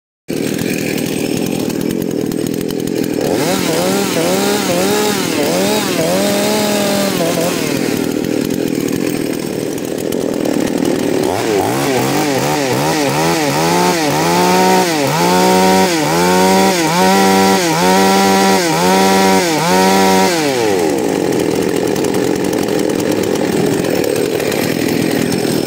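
Two-stroke chainsaw running loudly, its revs rising and falling again and again in quick succession, about once a second, in two runs: from about 3 s to 7 s and from about 11 s to 20 s. Between the runs it runs more steadily.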